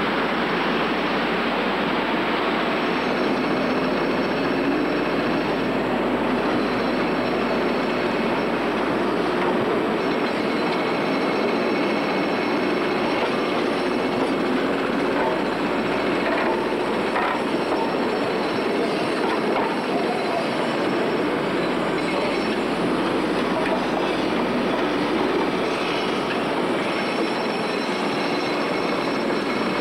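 A steam-hauled train of coaches, with a BR Standard Class 4 tank engine, moving slowly through the station on curved track: a steady rolling rail noise with wheel squeal and clicking over the rail joints.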